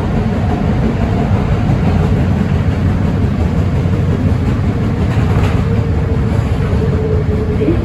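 Interior running noise of an R160B Siemens subway car in motion: a steady, loud rumble of wheels on rail, with a faint steady whine from the drive that comes in about two-thirds of the way through.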